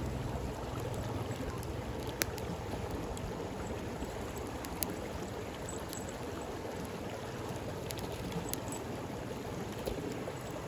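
Flowing stream with a steady rushing sound, over which a campfire crackles with a few sharp pops, the loudest about two seconds in.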